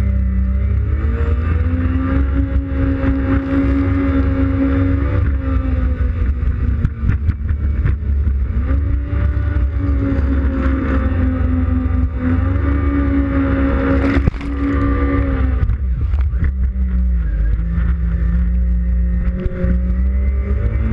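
Yamaha WaveRunner FX Cruiser High Output personal watercraft's four-stroke engine running under load, its pitch rising and falling several times as the throttle is worked, over a steady low rumble.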